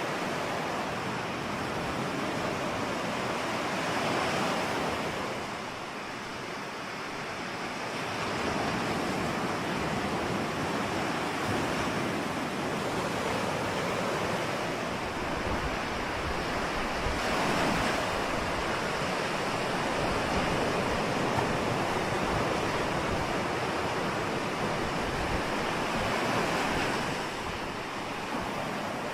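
Ocean surf washing ashore: a continuous rush of breaking waves that swells and eases, with louder surges about four seconds in, in the middle and near the end.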